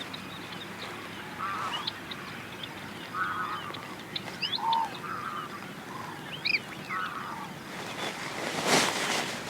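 Birds calling: a series of short honking calls, about six in all, with thin high chirps from small birds between them. A brief noisy rush comes near the end.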